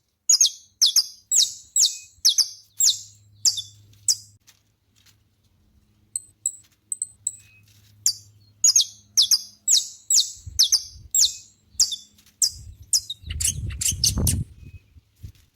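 Saffron finch singing: rows of short, sharp, high repeated notes about two a second, with a brief pause about four seconds in and the second row quickening near the end. A low rumble sounds briefly near the end.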